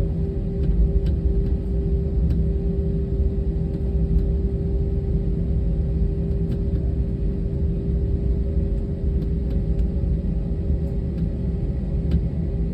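Airliner engines giving a steady low rumble, with a constant hum running through it; the level does not rise or fall.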